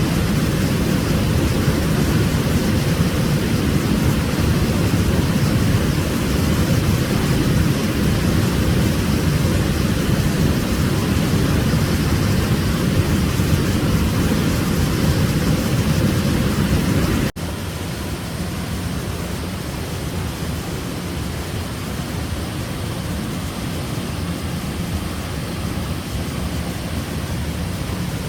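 Waterfall: a steady rush of falling water, heaviest in its low rumble. About seventeen seconds in it cuts abruptly to a quieter stretch of the same rush with less rumble.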